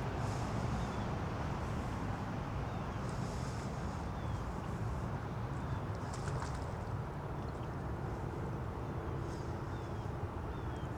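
Outdoor park ambience: a steady low background rumble with a few faint, short, falling bird chirps and brief soft rustles.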